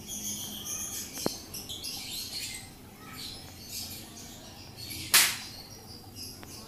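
Small birds chirping repeatedly in the background, with a sharp click about a second in and a brief loud burst of noise a little after five seconds.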